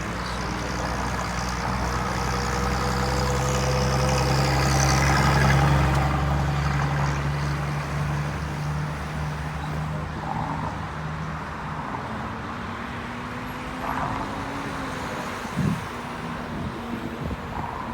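A motor vehicle's engine running, growing louder to a peak about five seconds in and then fading away, as it passes by.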